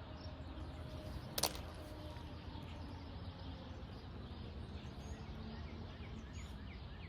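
Outdoor ambience: a low steady rumble with faint bird chirps, and one sharp click about a second and a half in.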